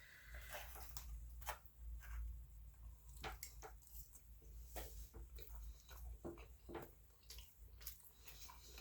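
Faint chewing and wet mouth sounds of someone eating, with scattered soft clicks over a low steady hum.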